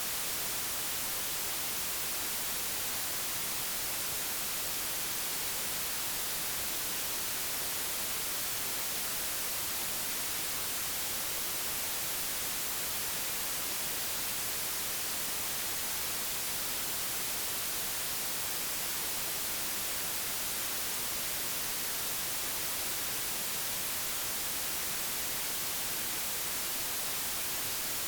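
Digitally generated white noise: a steady, unchanging hiss with no rhythm or events, brightest in the treble.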